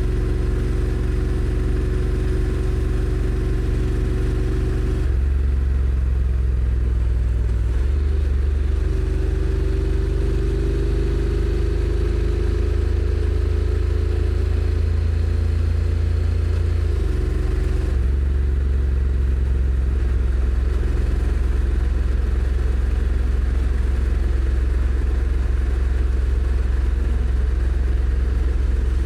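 Honda NC750X motorcycle's 745 cc parallel-twin engine running at city speed. Its note climbs slowly and changes abruptly a few times as the DCT dual-clutch gearbox shifts.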